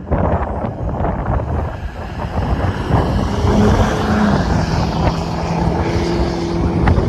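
Strong wind buffeting the microphone in a heavy, low rumble that rises and falls in gusts. A faint steady hum joins about halfway through.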